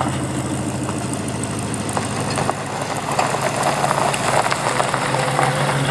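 Classic car engine running at a steady idle close by.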